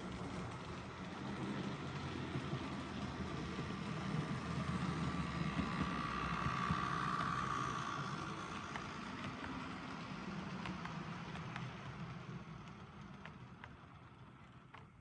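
H0m-gauge model train running on its track: a steady rumble of the small motor and wheels with scattered light clicks. It grows louder to the middle, with a brief whine there, then fades away near the end.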